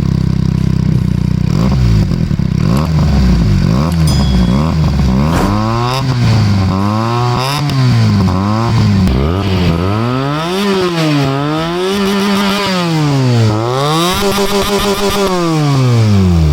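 Benelli TNT 300's parallel-twin engine through an IXIL X60 slip-on exhaust, revved repeatedly while standing. It starts just off idle with quick short throttle blips, then goes to longer revs that climb higher and fall back, about a second and a half each, in the second half.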